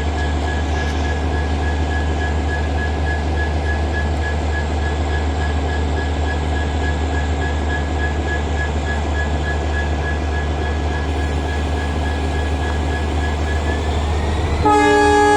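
Locomotive running steadily with a low rumble and a steady high whine. Near the end its horn starts sounding loud and sustained, several notes together.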